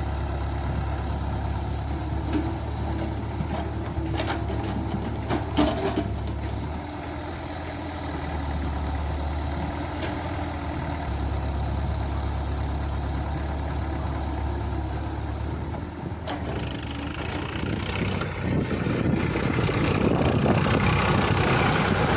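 Heavy diesel machinery running steadily at a soil-loading site, with a few sharp knocks early on. About seventeen seconds in, a louder, rougher noise builds up as the work gets heavier.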